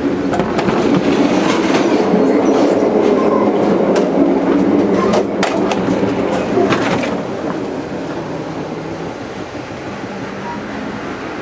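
Moving passenger train heard from inside the cars: a loud running rumble of wheels on rail with sharp clacks and rattles, which settles quieter and steadier about seven seconds in.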